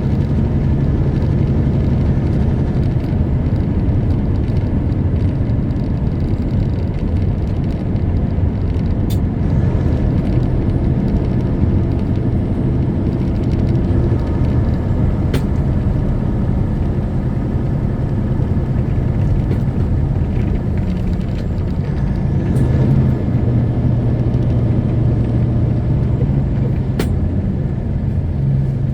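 Semi truck's diesel engine running steadily under road noise, a low drone whose note shifts a little twice along the way, with a few faint ticks.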